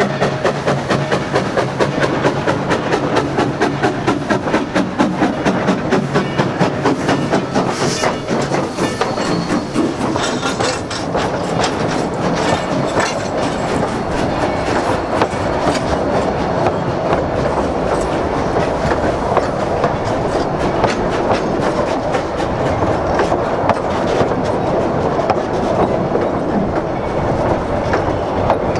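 Oil-fired narrow-gauge steam locomotive D&SNG 493 working a passenger train, with rapid, even exhaust beats for about the first ten seconds. After that comes a steadier rumble and clatter of the train rolling by.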